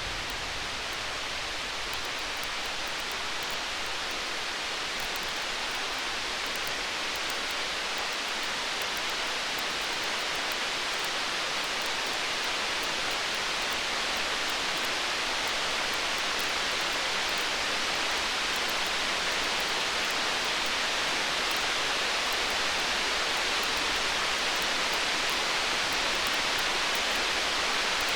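Steady, even hiss of heavy rain, slowly growing a little louder.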